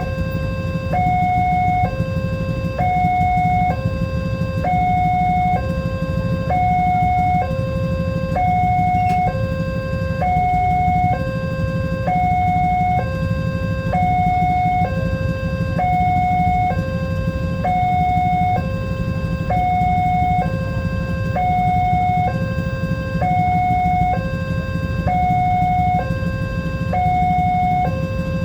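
Level-crossing warning alarm sounding a two-tone electronic signal, a higher and a lower tone alternating about once a second, steady and unbroken. A steady low rumble runs underneath.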